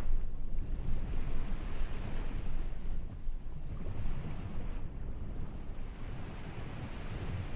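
Ocean surf, waves breaking and washing in, swelling every couple of seconds. Wind buffets the microphone with a low rumble.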